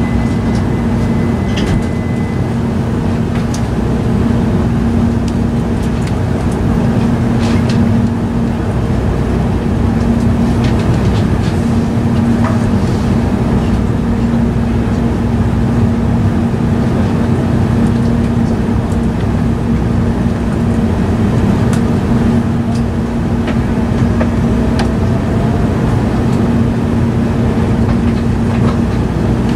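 E5 series Shinkansen running, heard from inside the passenger car: a steady rumble with a constant low hum and a few faint clicks. A faint high steady tone stops about two seconds in.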